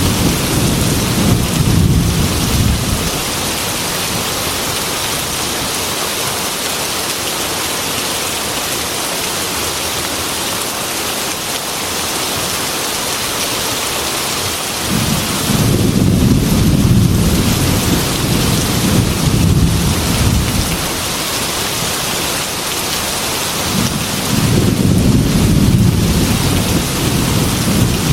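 Heavy, steady rain with rolls of thunder. One low rumble fades in the first few seconds, another swells just past the middle and lasts about five seconds, and a third builds near the end.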